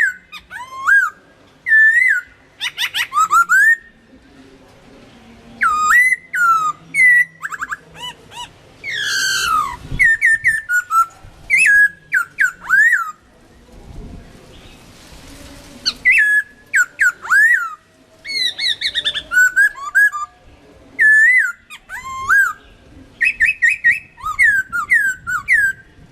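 Chinese hwamei (melodious laughing thrush) singing: loud, varied whistled phrases of rising and falling slurs and quick repeated notes, given in bursts with short pauses between them.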